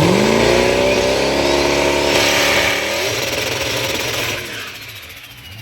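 Drag car's V8 engine accelerating hard down the strip, its pitch climbing steeply from launch, with a gear change about three seconds in, then fading as the car pulls away.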